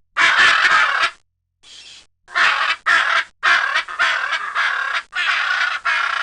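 Macaw giving a series of harsh, raucous squawks, about eight in a row with short gaps between them.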